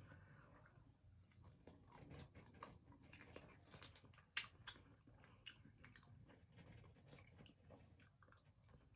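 Close-up eating sounds: a person chewing and biting into chicken wings, with scattered soft crunches and wet clicks.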